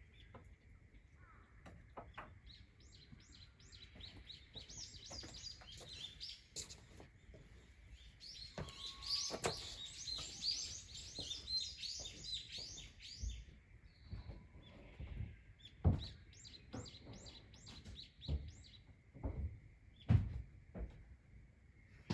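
Small songbirds chirping in fast runs of short, high notes, busiest about halfway through. A few sharp knocks sound among the chirps, the loudest two near the end.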